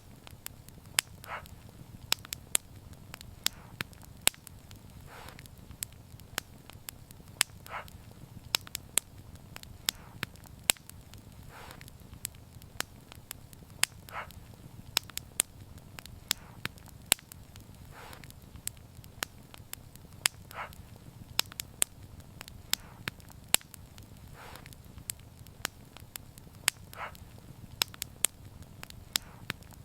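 Wood fire crackling: frequent sharp, irregular pops and snaps over a steady low rumble of flame, with a short softer sound recurring every three to four seconds.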